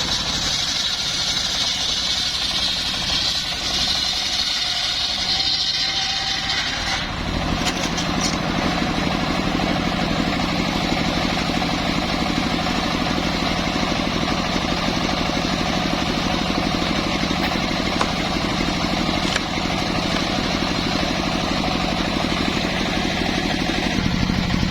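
An engine running steadily. About seven seconds in, the sound changes from a higher, hissing running to a lower, steady running.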